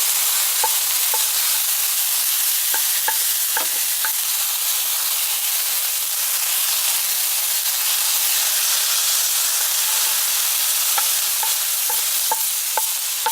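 Onions, ginger and garlic frying in hot olive oil in a karahi, giving a steady loud sizzle from the water added with the ginger and garlic. Scattered light clicks of a spoon against the pan come as it is stirred.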